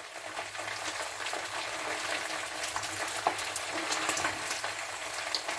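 Omena (small Lake Victoria sardines) deep-frying in a pan of hot oil: a steady sizzle full of small crackles and pops, with a few sharper clicks as a slotted spatula stirs them.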